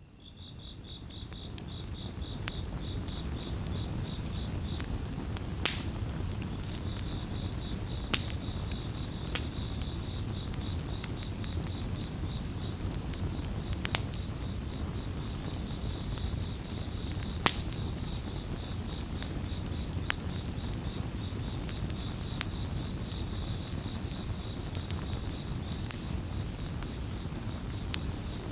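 Campfire crackling, with scattered sharp pops over a low steady rumble of burning wood. A cricket chirps in quick, even pulses throughout, pausing briefly a few seconds in. The sound fades in over the first couple of seconds.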